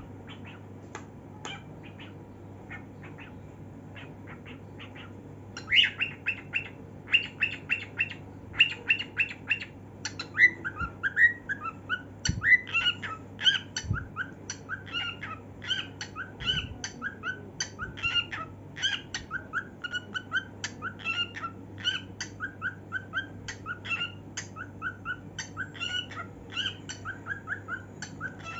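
Cockatiel singing: soft chirps at first, then from about six seconds in a run of loud, repeated whistled notes, which turn near ten seconds into a fast warbling song of short gliding notes, several a second. A steady low hum runs underneath.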